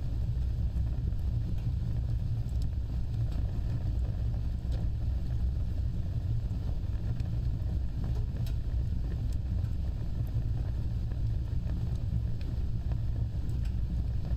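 Open fire burning: a steady low rumble of flames with scattered sharp crackles.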